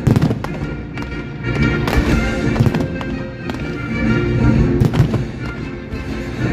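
Fireworks going off in a string of sharp bangs and crackles, over music with sustained tones.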